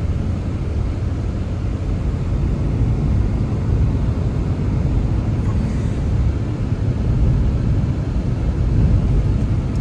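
Blizzard wind blowing steadily, a deep rumbling noise that rises and falls slightly.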